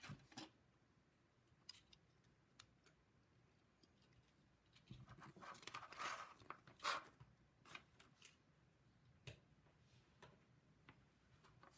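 LEGO pieces clicking and clacking as they are handled and pressed together, in scattered faint clicks, with a busier spell of rattling and handling about five to seven seconds in.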